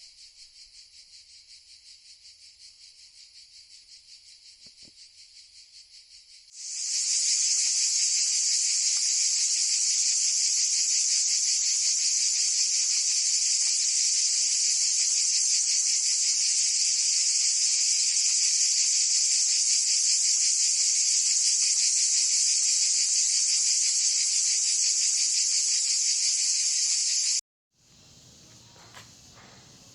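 Steady, high-pitched insect chirring made of very rapid pulses. It jumps much louder about six seconds in and cuts off abruptly near the end, leaving a faint background.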